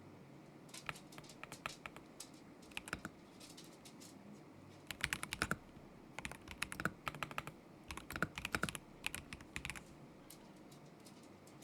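Typing on a KZZI K75 Pro mechanical keyboard with Moment linear switches: quick runs of key clicks in uneven bursts with short pauses, trailing off to a few taps near the end.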